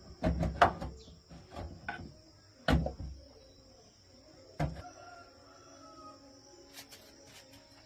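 A quick run of sharp knocks in the first second, then two single loud knocks a couple of seconds apart, over a steady high-pitched whine.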